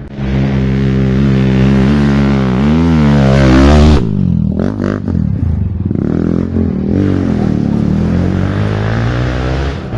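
Off-road dirt bike engine revving hard and close, its pitch rising and falling with the throttle, the throttle snapping shut about four seconds in before it revs again.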